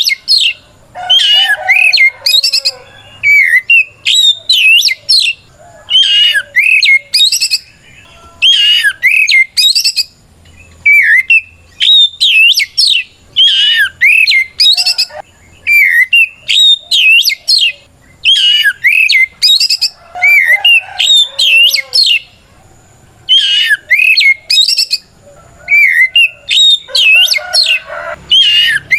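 Oriental magpie-robin (kacer) singing loudly in a long run of fast, varied whistled phrases, each a second or two long with short pauses between. It is the loud, combative calling meant to challenge a rival.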